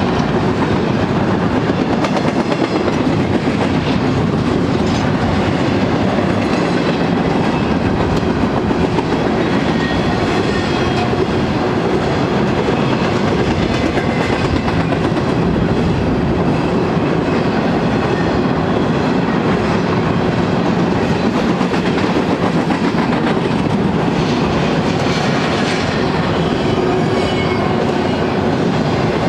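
Empty double-stack well cars of a freight train rolling past, their steel wheels clicking and running on the rails in a loud, steady sound with a faint steady hum.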